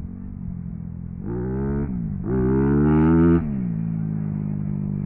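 Motorcycle engine idling, with its throttle blipped twice: a short rev about a second in, then a longer, louder rev that drops back to idle.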